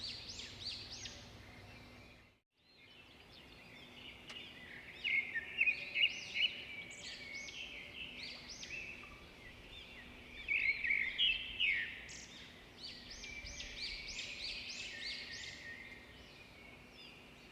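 Several birds chirping and singing, many short rising and falling calls overlapping, louder in clusters, with a brief gap in the sound about two seconds in.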